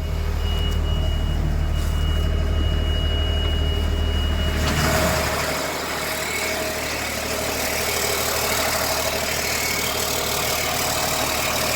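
An LMTV's Caterpillar diesel engine idling steadily, with a thin high whine over it. About five seconds in the whine stops and a steady hiss starts, and the engine's low hum drops back.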